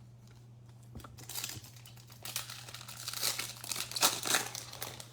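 A trading-card pack's wrapper being torn open and crinkled by hand, with crackling that starts about a second in and is loudest near the end. A steady low electrical hum runs underneath.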